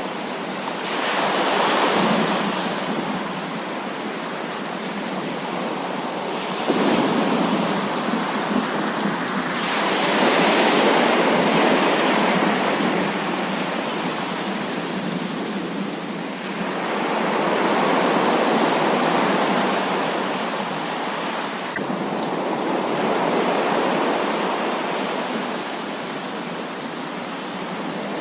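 Heavy rain falling steadily. Several long rolls of thunder swell and fade over it, one breaking in sharply about seven seconds in.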